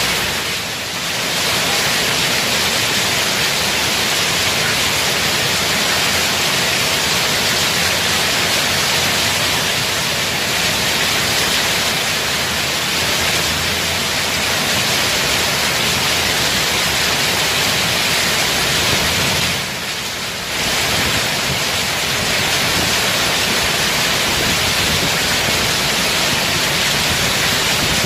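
Heavy rain pouring steadily, a dense even hiss, with two brief dips in level, one near the start and one about two-thirds of the way through.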